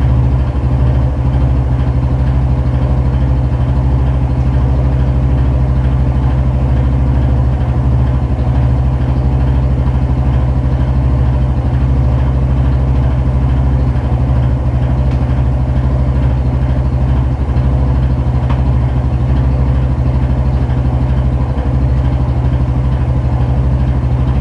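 Yamaha Fazer 250's single-cylinder engine idling steadily. The engine was brought in for a strange engine noise, and the mechanic calls it completely out of tune.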